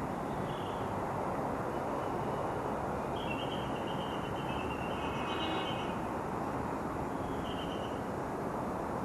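Steady rushing noise of a vehicle on the move, wind and road noise with no clear engine note, with a few faint high tones about half a second in, between three and six seconds, and again near the end.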